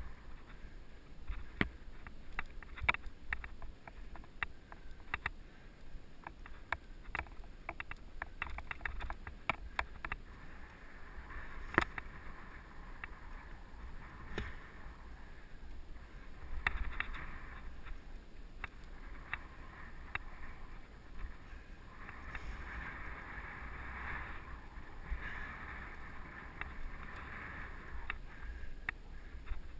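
Mountain bike rolling along a dirt trail: tyres on dirt and gravel with frequent clicks and knocks as the bike rattles over bumps, heaviest in the first half, with one sharp knock near the middle. A steady low rumble runs under it, heard through a helmet-mounted GoPro.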